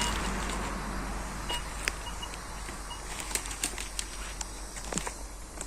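Minelab Vanquish metal detector giving short high beeps as its coil is swept over a target, among rustling and a few sharp clicks of leaves and twigs.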